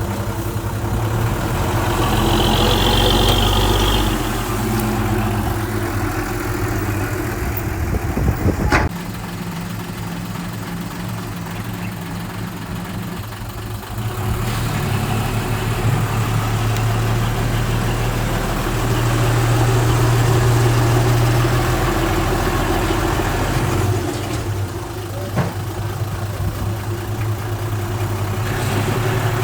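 Diesel engines of earthmoving machinery, a small bulldozer and dump trucks, running at changing load, louder and quieter in turns, with a sharp knock about nine seconds in.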